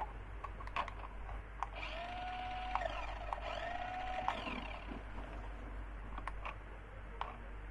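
Small electric motor of a battery-powered toy whirring in two spells, each rising in pitch and then holding steady for about a second, among light clicks of handling.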